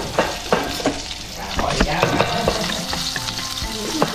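Chopped garlic and sliced chillies sizzling in hot oil in an aluminium wok, a steady crackling hiss, with short sharp clicks of chopsticks stirring against the pan.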